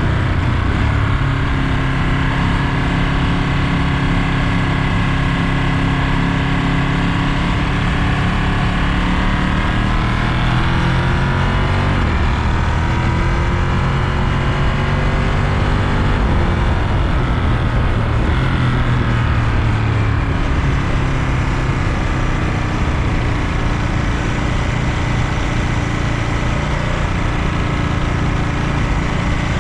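Ducati Monster 937's 90-degree L-twin engine running under way, its note rising and falling repeatedly as the rider opens and closes the throttle.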